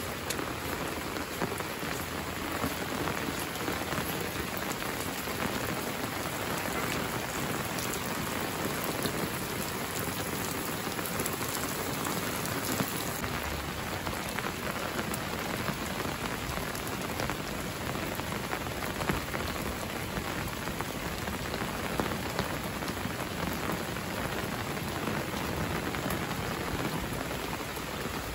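Steady rain falling on a stone path, puddled road and garden leaves, an even hiss with occasional sharper drops ticking close by.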